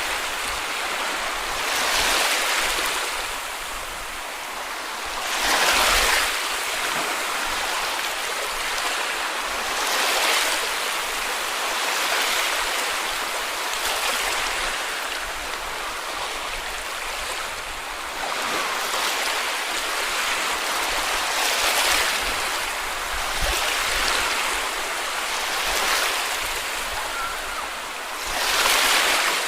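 Small sea waves washing onto a beach, one soft break every two to four seconds over a steady wash of surf.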